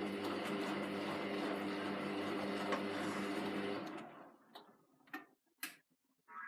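Hoover VT 914 D22X washing machine running mid-cycle, a steady hum over a rushing noise, which cuts off abruptly about four seconds in. A few short knocks follow.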